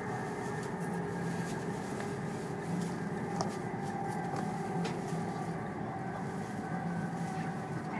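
Steady running noise of a high-speed train heard from inside the passenger cabin: a continuous low rumble with a faint hum, and a couple of faint clicks about midway.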